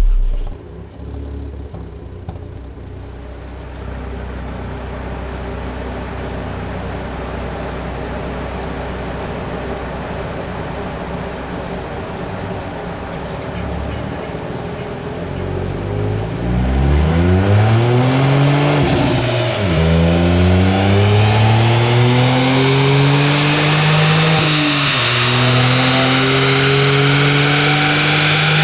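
Ford Fiesta MK8 ST's 1.5-litre turbocharged three-cylinder engine through a Milltek Sport cat-back exhaust. It runs steadily at low revs, then a little past halfway it accelerates hard through the gears: the engine note climbs, drops at two gear changes, and climbs again.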